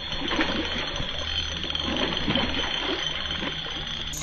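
A small spinning reel being cranked while fighting a hooked catfish, its gears turning with a run of quick irregular clicks.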